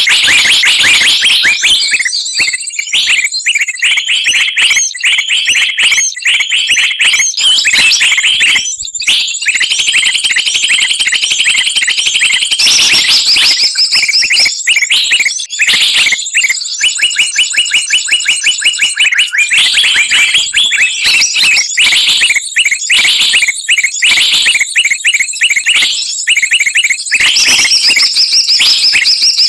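Bird-trapping lure recording: a dense, loud mix of many small songbirds chattering and trilling at once, rapid high-pitched repeated chirps layered without a pause.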